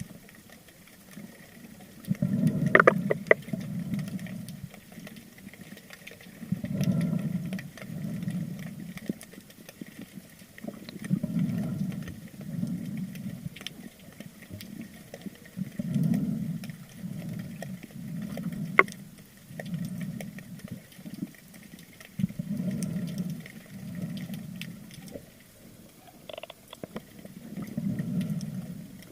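Underwater sound picked up through a camera housing: low swishing swells of moving water about once a second, coming in groups with short pauses, with scattered sharp clicks, a cluster about three seconds in and a single one near the middle.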